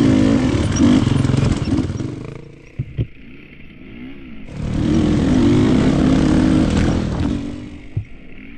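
KTM enduro dirt bike engine pulling under throttle, backing off about two and a half seconds in with a couple of sharp knocks, then rising in pitch as it pulls again and easing off near the end.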